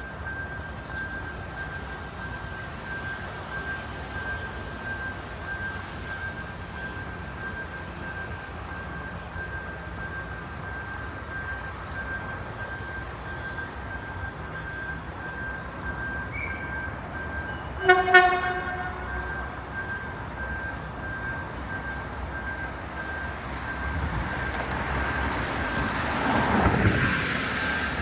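Street traffic at a railway level crossing, with a steady high pulsing beep throughout. About two-thirds of the way in, a horn gives one short, loud toot. Near the end a vehicle passes close in a swelling rush of noise.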